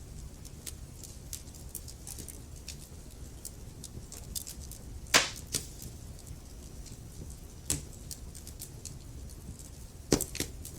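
Burning logs in a fireplace crackling, with a soft low rumble of the fire and scattered sharp pops; a loud pop comes about halfway through, another a little later, and a quick cluster near the end.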